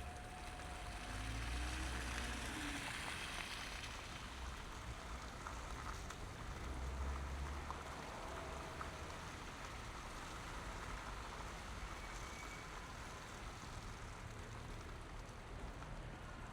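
City traffic on a snowy street: engines rumbling and tyres hissing on wet pavement. A vehicle swells past about a second in, and a heavier low rumble passes around seven seconds in.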